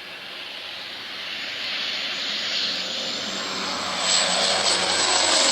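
Aircraft engine noise growing steadily louder as the plane comes closer, with a high whine that rises in pitch and then holds; loudest about four seconds in.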